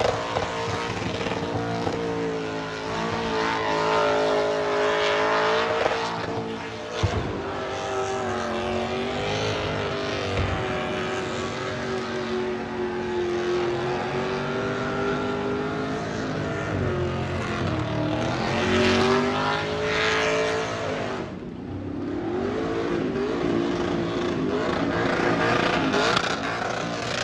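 A burnout car's engine held at high revs, its pitch wavering up and down as the throttle is worked, over the hiss and squeal of spinning rear tyres. Near the end the revs drop off briefly, then climb again.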